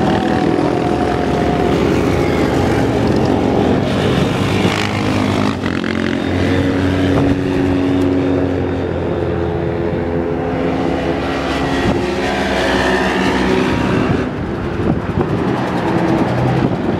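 Many motorcycles riding past one after another, their engines overlapping at shifting pitches as they rise and fall in speed.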